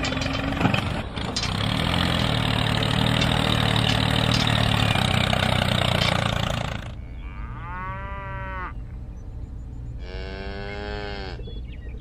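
A tractor engine running steadily for the first half, then two long cow moos, each about a second and a half, rising and falling in pitch.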